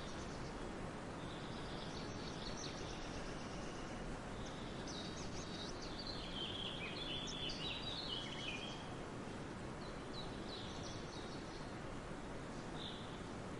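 Birds chirping and trilling over a steady background hiss, with the busiest run of calls about the middle.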